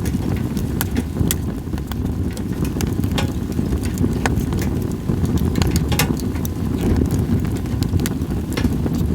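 Campfire of split sawtooth oak (kunugi) firewood crackling, with frequent sharp irregular pops over a steady low rumble.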